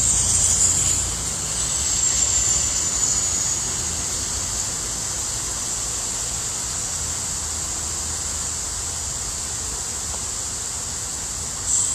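Steady outdoor hiss of falling rain with a low rumble underneath and a constant high-pitched whine above it.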